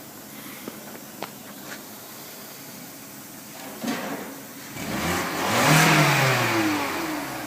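Volkswagen Polo engine revved once: the pitch climbs about five seconds in, peaks and falls back over roughly two seconds. A few light clicks come first, then a thump shortly before the rev.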